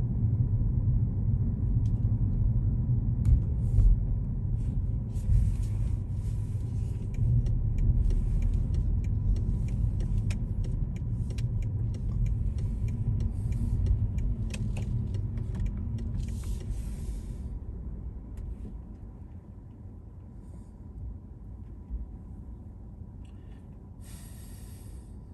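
Low road and engine rumble from a car driving through city streets, with patches of hiss and scattered clicks over the first two-thirds. The rumble eases off after about eighteen seconds, as when the car slows, and there is a short hiss near the end.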